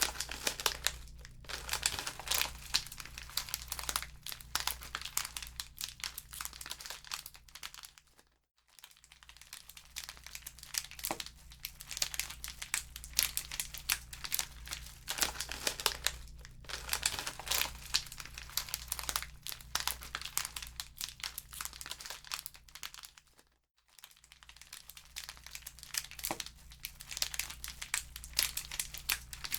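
Wood fire crackling in a fireplace: a dense, irregular run of pops and snaps that dies away briefly twice.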